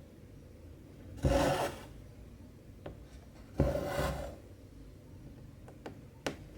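Two strands of cotton embroidery thread being pulled through 14-count cross-stitch fabric, twice, each pull a swish of about half a second, with a few faint ticks between.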